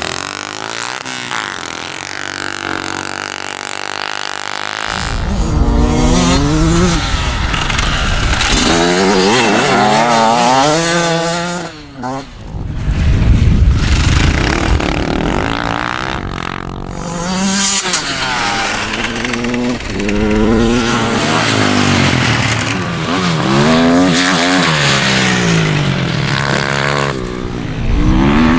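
Racing motorcycle engines running steadily for a few seconds, then pulling away hard about five seconds in, revving up in pitch and dropping back over and over as they shift up through the gears.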